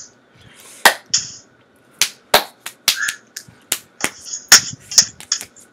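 A series of sharp, irregular clicks or taps, sparse at first and then about three a second, with a few soft hissing sounds between them.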